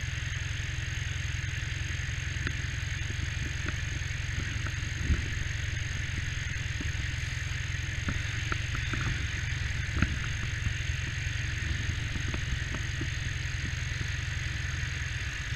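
Motorcycle engine idling steadily, a low even rumble with a steady high-pitched whine over it. A couple of light knocks stand out, about five and ten seconds in.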